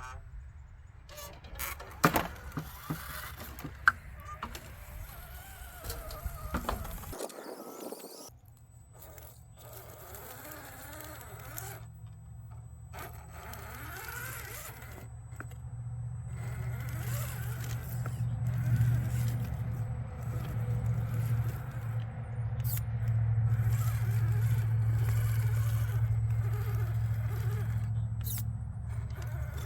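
Electric motor and gears of an RC scale crawler buzzing as it drives, growing louder from about halfway through. A few sharp knocks come in the first few seconds.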